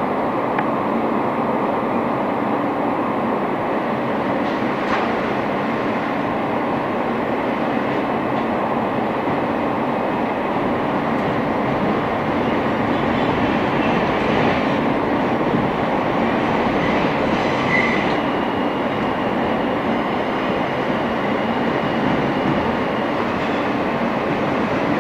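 An R160 subway car heard from inside, running at speed between stations: a steady rumble of wheels on rail and car noise. A faint high squeal from the wheels comes in about halfway through.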